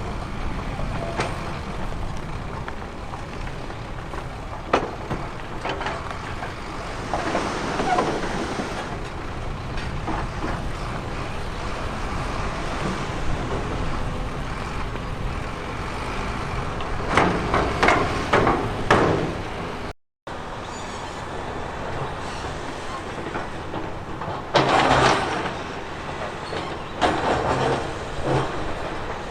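Diesel engine of heavy earthmoving machinery running steadily, with repeated bursts of loud clattering from rock and metal. The sound cuts out for a moment about two-thirds of the way through.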